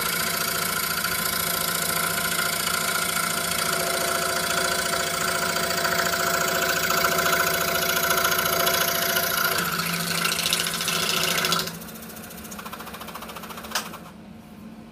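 26-inch RBI Hawk scroll saw running a skip-tooth blade through Baltic birch plywood, a steady mechanical buzz. About twelve seconds in the cutting sound stops and the level drops sharply; near the end there is a single click, and after it the sound is quieter still.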